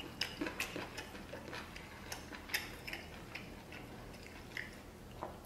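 Close-miked chewing of a mouthful of rice and stir-fry: soft, irregular mouth clicks and smacks, with chopsticks touching the rice bowl near the end.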